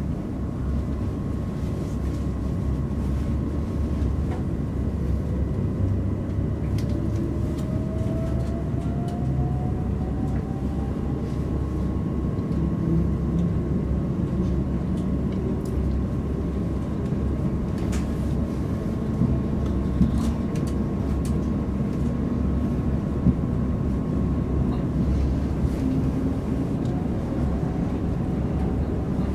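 Cabin noise inside a Class 387 Electrostar electric multiple unit running at speed: a steady rumble of wheels on rail with a faint electric whine. One whine rises in pitch over several seconds in the first half, and a few sharp clicks come later.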